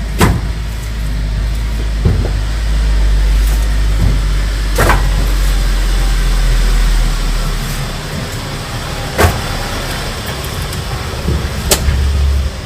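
Road vehicle on the move: a steady low rumble that eases off about halfway through, with several sharp knocks and clicks.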